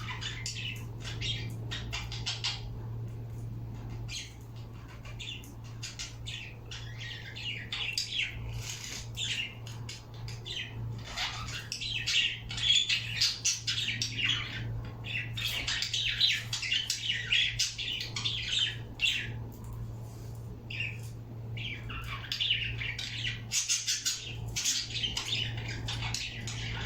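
Pet birds chirping and squawking in rapid, overlapping calls, louder and busier in the middle and near the end, over a steady low hum.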